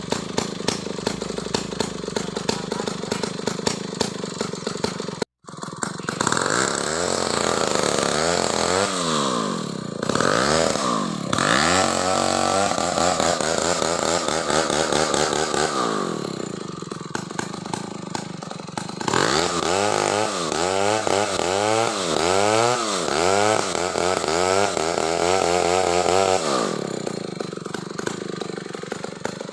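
Two-stroke Stihl chainsaw idling, then revved up and down in repeated surges as it cuts into a coconut palm trunk, dropping back to idle near the end.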